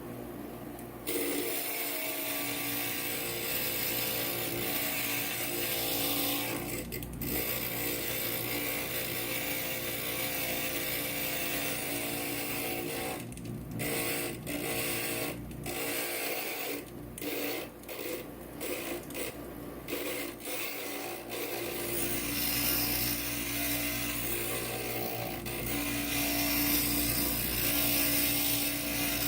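Inland stained glass grinder running, its bit grinding the edge of a glass piece: a steady motor tone under a gritty grinding noise. It starts about a second in and breaks off briefly several times around the middle.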